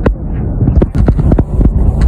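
Wind buffeting the microphone: a loud low rumble broken by irregular thumps and crackles.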